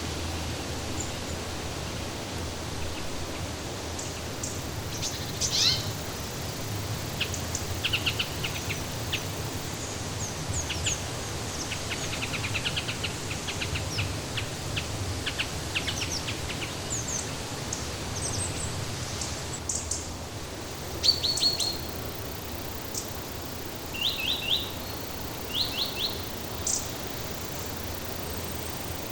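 Several birds chirping and singing in short calls and trills, with the loudest bursts near the end, over a steady rushing background noise.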